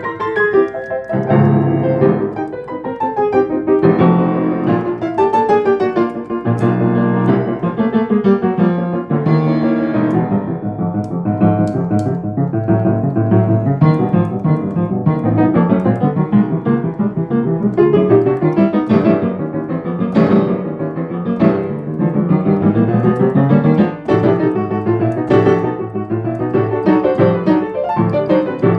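Acoustic piano playing a continuous piece with quick runs and full chords, just after being tuned and regulated.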